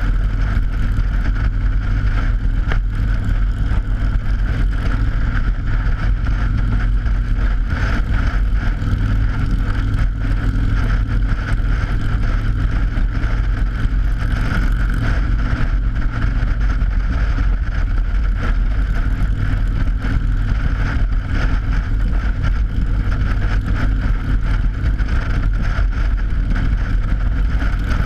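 Motorcycle running steadily at road speed over a steel grate bridge deck: a constant drone from the engine, with a steady higher hum from the tyres on the grating and some wind on the microphone.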